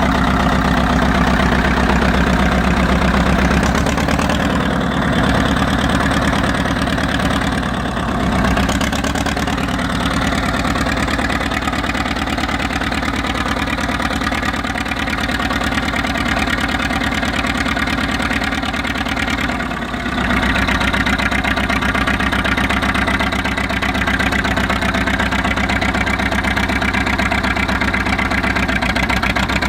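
1956 International TD6 crawler dozer's gas-start diesel engine running steadily, with a brief dip in the engine note about twenty seconds in.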